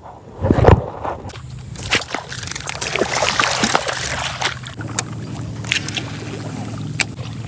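Water sloshing and splashing, with a heavy thump about half a second in and scattered clicks. A low steady hum grows stronger about five seconds in.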